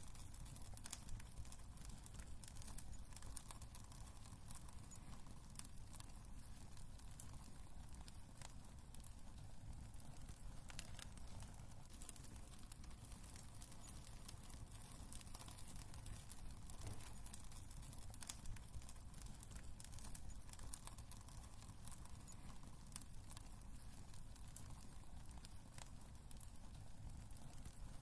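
Wood fire crackling in a fireplace: scattered sharp pops and snaps over a faint, steady low rumble of burning.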